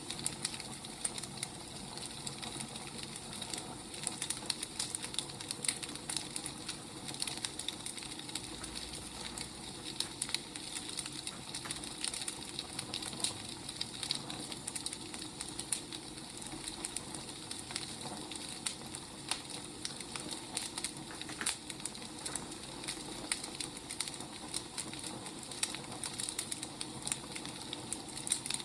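Wood fire crackling and popping in many small, irregular snaps over a steady hiss.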